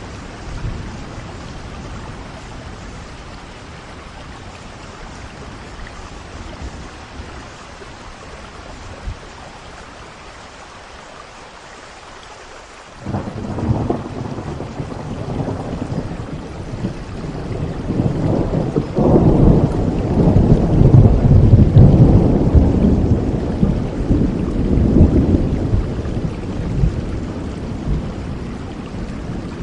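Steady rain falling, then a long roll of thunder that breaks in suddenly about halfway through, swells into a deep rumble for over ten seconds and slowly dies away near the end.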